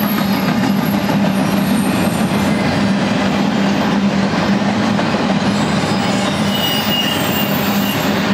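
Freight train of empty articulated intermodal well cars rolling past at speed: a steady, loud rumble and rattle of steel wheels on rail with a constant low hum, and brief faint high wheel squeals about seven seconds in.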